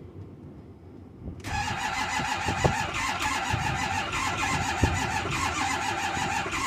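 Ford 6.4 Power Stroke V8 diesel being cranked on the starter in 2-degree cold. The cranking starts about a second and a half in and goes on steadily without the engine catching: it is failing to start in the cold.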